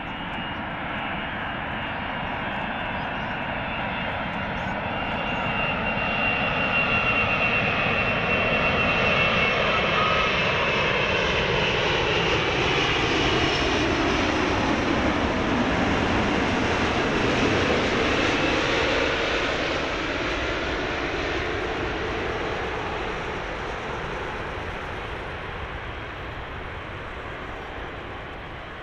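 Airbus A380's four Engine Alliance GP7200 turbofans passing by on its landing, growing louder to a long peak with a hollow, sweeping phasing in the jet noise, then fading away.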